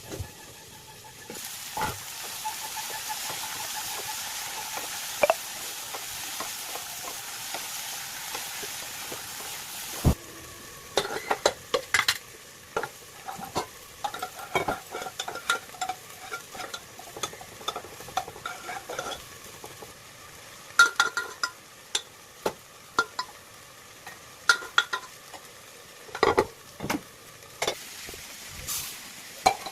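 Food sizzling steadily in hot oil in a pan; the sizzle stops suddenly with a knock about ten seconds in. After that, a cooking utensil stirs and scrapes in the pan, with many irregular clicks and knocks against it.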